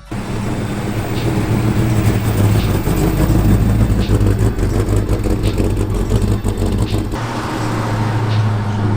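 Car engine running steadily with a deep, even note; the sound shifts slightly about seven seconds in.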